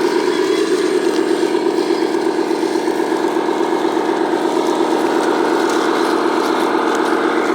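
1/14-scale radio-controlled dump truck running: a steady mechanical hum with a fast, even pulsing.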